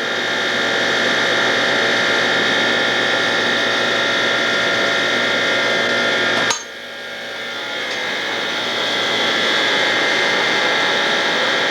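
Steady hum and hiss of running dairy machinery. About six and a half seconds in there is a sharp click, and the sound drops and then slowly builds back up.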